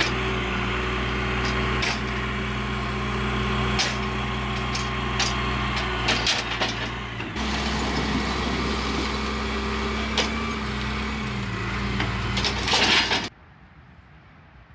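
A vehicle engine running steadily, its pitch dipping and then rising again twice as the load changes, with knocks and clatter over it. A loud crunch comes just before the end, and then the engine sound cuts off abruptly.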